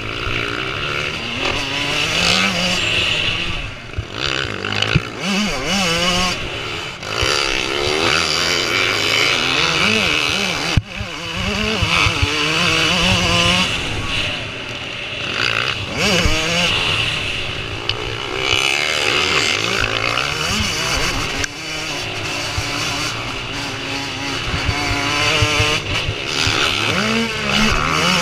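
Several motocross motorcycles racing, their engines revving up and falling back over and over as they ride the track.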